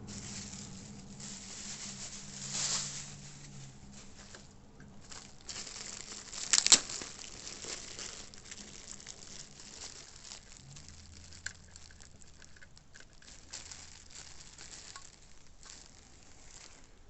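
Hands rummaging through a box and its packing material, with uneven rustling and crinkling and small clicks. One sharp knock about seven seconds in is the loudest sound.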